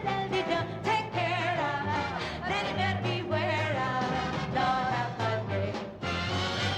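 Female voice singing a soft ballad live with band or orchestra accompaniment, holding notes with vibrato over a bass line.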